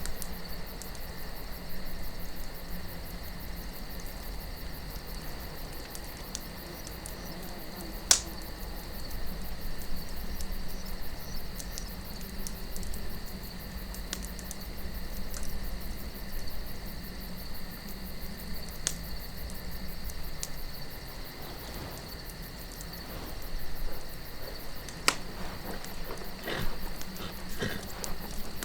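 Campfire crackling, with scattered sharp pops of burning wood, the loudest about a third of the way in and a cluster near the end. Under it, a steady chorus of night insects and a low rush of wind.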